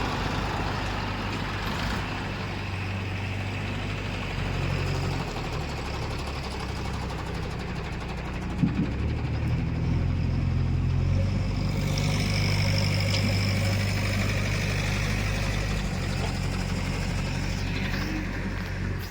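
Heavy diesel machinery engine running steadily, its note stepping up and down as the load changes, with a single sharp knock just under halfway through and a brief high whine a little later.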